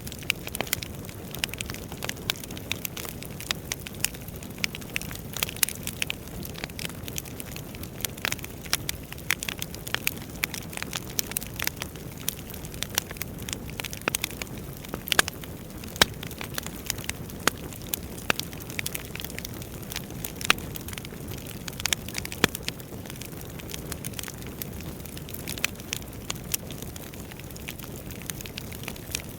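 Wood fire burning in a fireplace, crackling and popping with many irregular sharp snaps over a steady low rush of flames.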